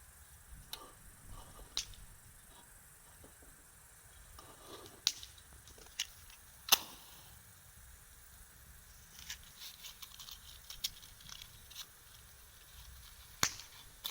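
Wood campfire crackling quietly, with scattered sharp pops; the loudest pops come about five, six, seven and thirteen seconds in, with a run of small ticks in between.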